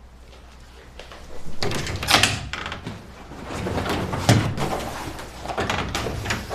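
Rustling and scraping handling noises, with two sharper knocks about two and four seconds in.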